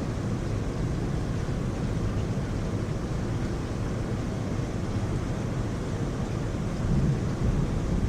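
Heavy rain falling steadily, an even wash of noise weighted toward the low end, swelling slightly about seven seconds in.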